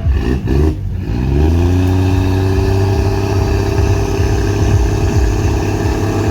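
Volvo 945's D24 turbodiesel engine revving up quickly over about a second and a half, then held at steady high revs, as in a burnout.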